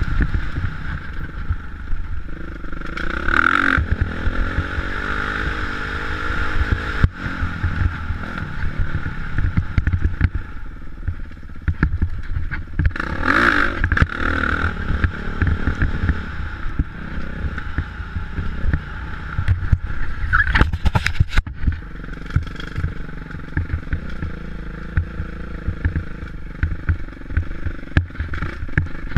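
Motocross dirt bike engines running, with a few brief louder swells and changes in pitch about 3.5, 13.5 and 20.5 seconds in.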